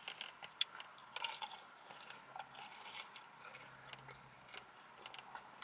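A person chewing and biting food close to the microphone, faint scattered wet clicks and crunches, during a mukbang meal of fried chicken and cornbread.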